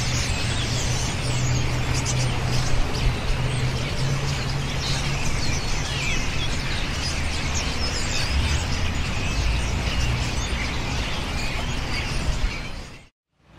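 A huge flock of European starlings chattering at their roost, a dense continuous mass of overlapping squeaks and whistles, over a steady low hum; it cuts off abruptly near the end.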